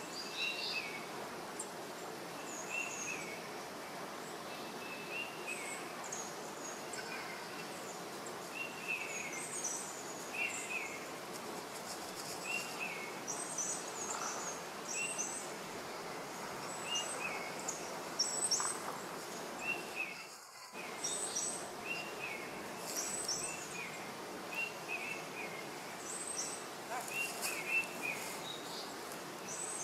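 Birds chirping, short calls repeating about once a second over a steady outdoor hiss; the sound cuts out briefly about two-thirds of the way through.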